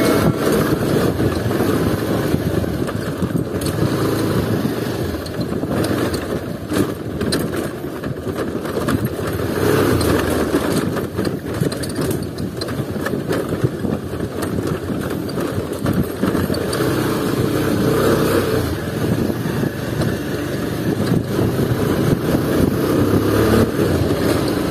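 Bajaj Pulsar 220F's single-cylinder engine running at low speed on a rough, rocky dirt track, with frequent knocks and rattles as the bike jolts over the stones.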